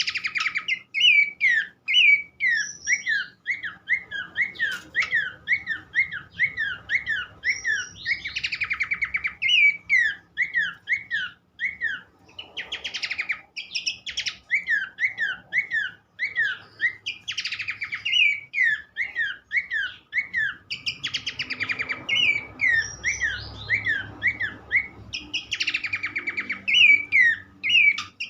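Pelanduk semak babbler song, a fast run of short, sweeping whistled chirps at about three a second. Every few seconds a harsh, buzzy chatter breaks in. It is played as a lure to get other birds of the kind singing.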